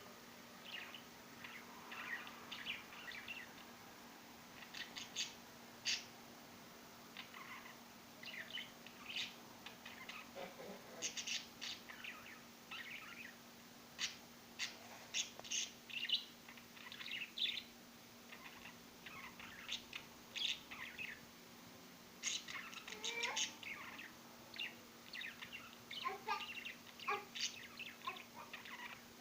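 Birds sold as karawan (thick-knees) calling with many short, sharp chirps and squeaks, in irregular runs, over a faint steady low hum.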